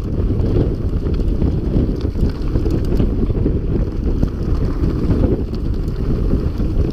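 Wind buffeting the microphone of a mountain bike rider at speed, a loud steady rumble, with light rattling knocks from the bike on rough trail.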